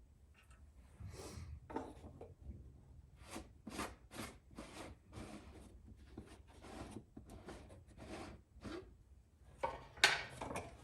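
A series of short rubbing and scraping handling noises, irregularly spaced, with a sharper, louder knock about ten seconds in.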